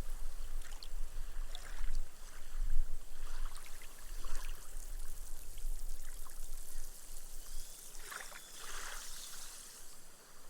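Small, gentle waves lapping onto a sandy beach, the water fizzing and trickling as the foam sinks into the sand. The wash dies away over the last few seconds.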